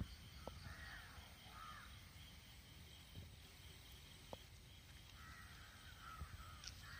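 Quiet outdoor ambience with faint, harsh bird calls in the distance: a few about a second in and another run near the end.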